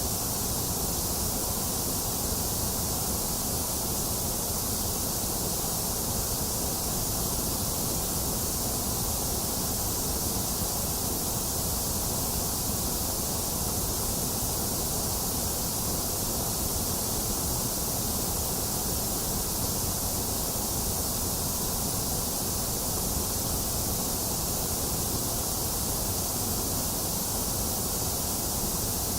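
A box fan's steady whir mixed with falling rain: an even, unchanging hiss with no thunder.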